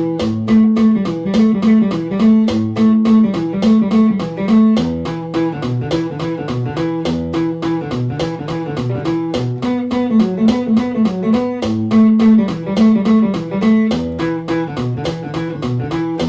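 Guitar playing a fast, repeating riff at about 210 beats a minute, with quick evenly picked notes over a recurring low-string pattern.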